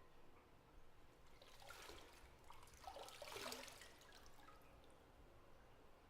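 Bath water splashing and trickling softly in a bathtub for a couple of seconds, swelling about a second and a half in, peaking a little after the middle, then fading to quiet room tone.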